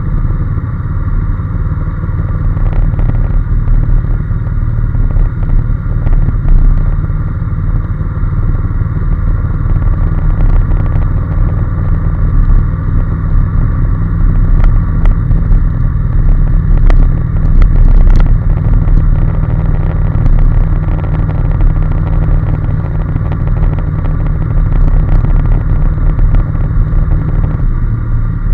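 Honda NC750S motorcycle's parallel-twin engine running steadily while riding, with a few brief clicks about two-thirds of the way through.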